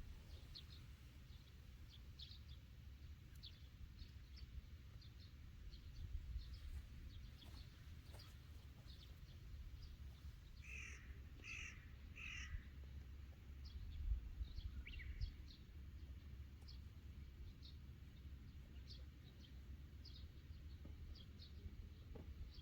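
Crow cawing in a short series of harsh calls about eleven seconds in, against small birds chirping throughout at a low level.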